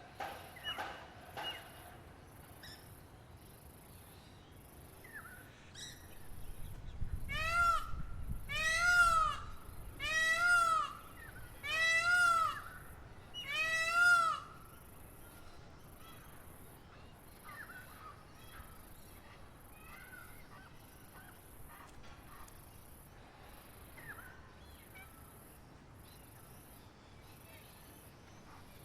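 A bird gives four loud, harsh calls about two seconds apart, each a quick string of repeated notes. They sound over a steady, high, pulsing insect chirp and occasional faint small-bird chirps.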